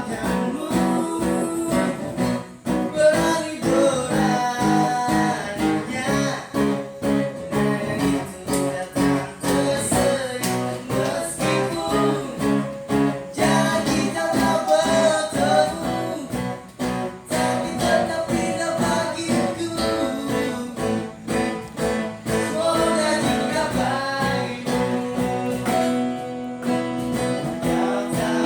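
Acoustic guitar playing a pop song, strummed and plucked in a steady rhythm.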